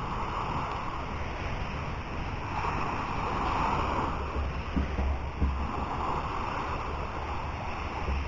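Sea water washing in repeated swells about every two to three seconds, with wind buffeting the microphone in low gusts.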